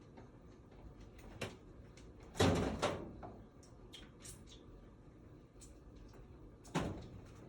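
Scattered knocks and light clicks from handling parts or tools during furnace installation work. The loudest is a clatter about two and a half seconds in, and there is another sharp knock near the end.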